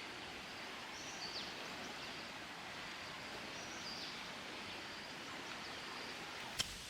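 Steady hiss of falling rain, with a few faint high chirps and one sharp click near the end.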